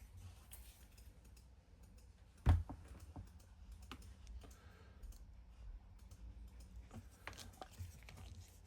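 Scattered small metallic clicks with one louder knock about two and a half seconds in: a keyless drill chuck and its clamping key being handled.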